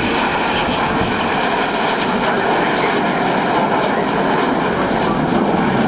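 Avro Vulcan bomber's four Rolls-Royce Olympus turbojets making a loud, steady jet noise as it flies past.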